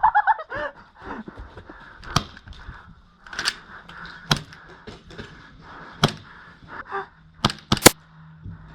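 Airsoft gas pistols firing: about seven sharp single cracks, spaced irregularly, the last three in quick succession near the end.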